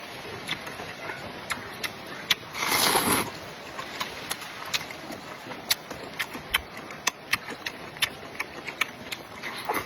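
A person eating close to the microphone: many short wet clicks of chewing and lip smacks, with one louder, rushing burst about three seconds in.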